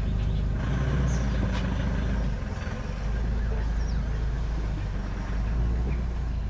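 Steady low rumble of a vehicle engine, with birds chirping faintly over it.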